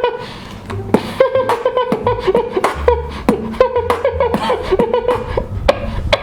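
Beatboxing: a person's mouth making sharp percussive clicks and bass thumps in a steady rhythm over a held hummed tone.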